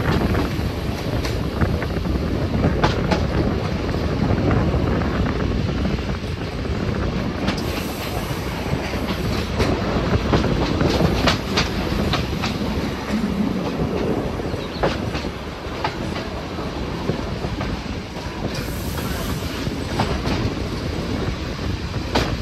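Passenger train rolling into a station, its wheels clattering irregularly over rail joints above a steady low rumble.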